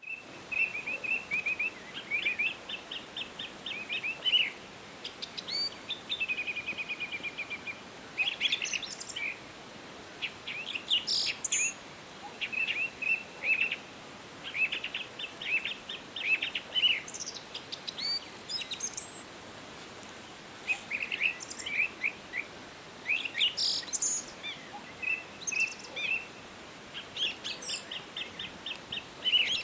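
Several songbirds singing in overlapping phrases: fast, repeated trills alternating with short, higher chirps, one phrase after another, over a faint steady hiss of forest ambience.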